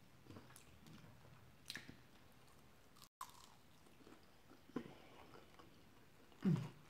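A person chewing food with the mouth closed, close to the microphone: faint wet mouth clicks and smacks, a sharper click about a second and a half in, and near the end a short low hum from the throat, the loudest sound.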